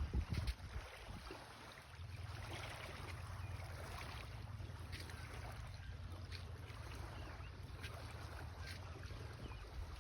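Steady low wind rumble on the microphone over faint lakeshore ambience, with a few bumps in the first half second.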